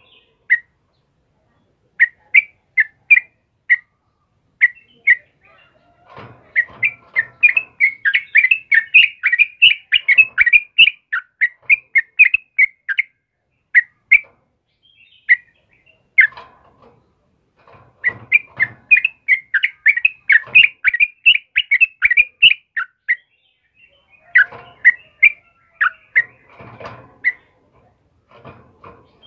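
Yellow-vented bulbul (trucukan) singing: rapid runs of short, bright chirping notes, sparse at first and then in dense chattering bursts. Faint low knocks sound beneath the busiest stretches.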